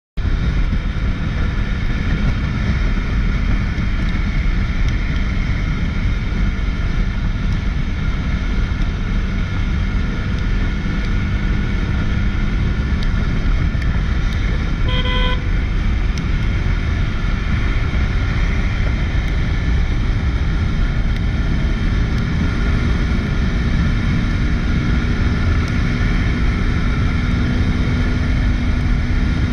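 Riding at speed on a Bajaj Pulsar 200 NS motorcycle: steady wind rush on the microphone over the engine's hum, with a short horn toot about halfway through.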